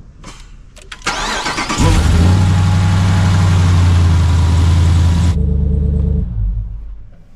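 Supercharged V8 engine of a Jeep Gladiator cranking and catching on its first start after an oil change, about a second in. It then runs loud with a steady low note. Near the end the sound drops away, the last low note fading out over a second or so.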